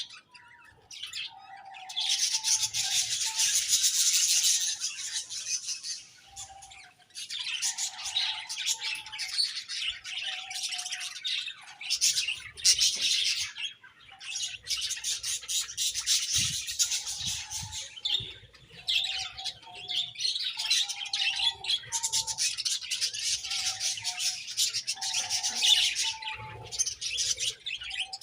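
Budgerigars chirping and warbling in rapid, busy chatter that comes in stretches of a few seconds with short pauses between, over a steady run of short, lower calls.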